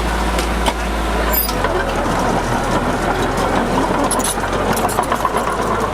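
Heavy diesel engine of earthmoving machinery running, its low hum dropping in pitch about a second and a half in, with crunching and rattling of dirt and metal over it.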